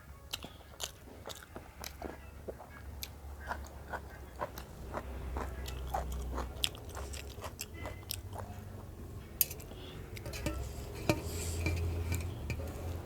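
Close-up eating sounds: chewing and biting, with many small sharp clicks and smacks from the mouth.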